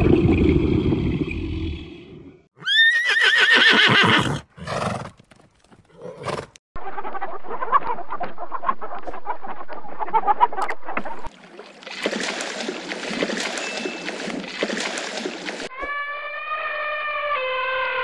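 A series of different animal calls cut one after another. A low call fades out, then a high wavering call comes about three seconds in. Chickens cluck and scratch for about four seconds in the middle, a burst of harsh noise follows, and a long pitched call starts near the end.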